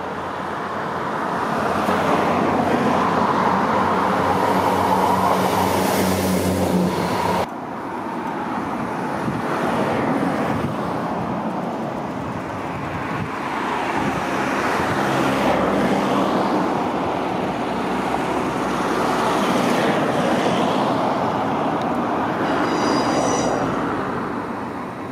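A short two-car passenger train approaching with a steady engine drone, which stops abruptly at a cut. Then an LNER Hitachi Azuma high-speed train runs through, a rushing wheel-on-rail noise that swells and eases as it nears, with a brief high squeal near the end.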